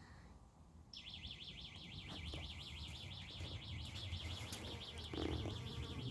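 A bird's rapid, evenly pulsed high trill starting about a second in and held for about five seconds, over a steady low hum.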